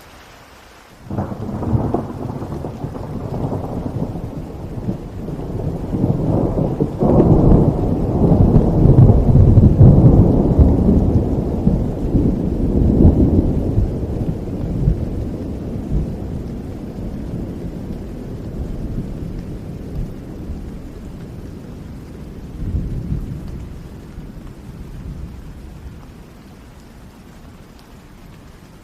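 A long peal of thunder over steady rain: it breaks in suddenly about a second in, rumbles loudest a few seconds later and then slowly fades away, with a smaller rumble near the end.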